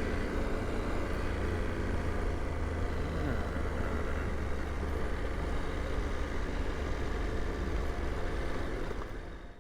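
KTM 890 Adventure R's parallel-twin engine running steadily, with a strong low rumble under a spread of road and wind noise. The sound cuts off abruptly near the end as the recording stops.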